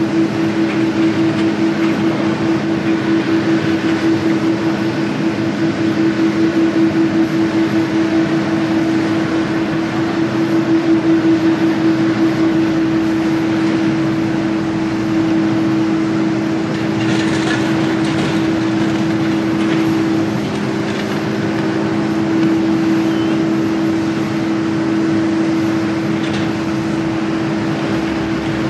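Jet airliner engines running steadily, two low hums over a broad rushing noise; the higher hum pulses for the first dozen seconds or so, then holds steady.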